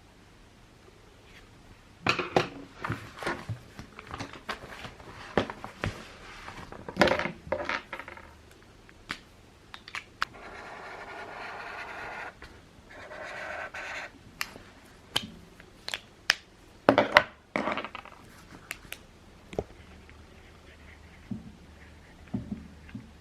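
Clicks, knocks and scrapes of small hard objects being handled and set down, with a couple of seconds of steady hiss around the middle.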